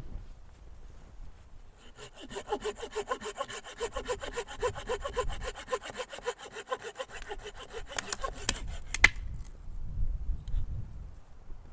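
Hand saw cutting wood with quick, even back-and-forth strokes for about six seconds, then a few sharp clicks and one loud crack as the cut finishes.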